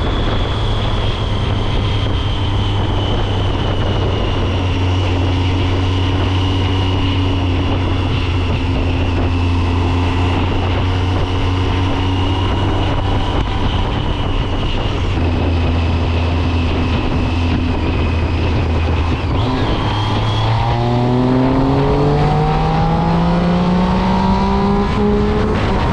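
Triumph Speed Triple's 1050 cc three-cylinder engine heard from on the bike, holding a steady note at cruising speed. For the last five or six seconds the revs climb smoothly as the bike accelerates.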